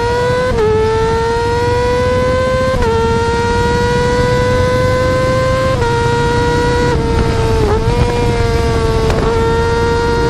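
Yamaha R6 inline-four sportbike engine held at high revs, one high steady pitch that creeps slowly upward, with a few brief dips and small steps down along the way.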